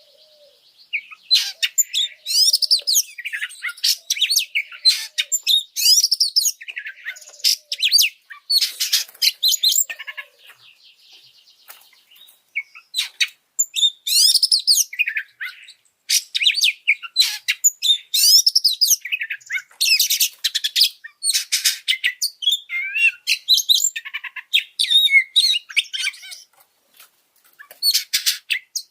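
Oriental magpie-robin (kacer) singing a loud, fast, varied song of rapid whistled and chattering phrases in quick succession, with a quieter stretch of a couple of seconds about ten seconds in and another near the end. It is an agitated, high-arousal song, the kind played to train and provoke captive kacer.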